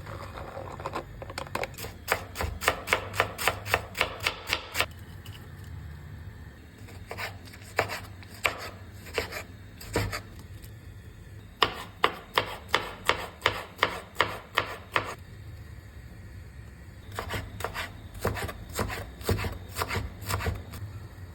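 Knife chopping vegetables on a cutting board in quick, even strokes of about four a second, in three runs with short pauses between.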